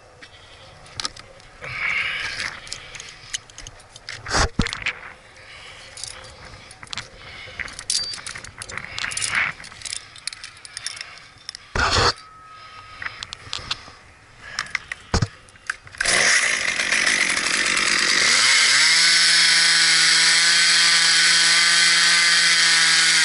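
Scattered knocks and rustling for most of the clip, then a chainsaw starts near the end, revs up and runs steadily at full throttle.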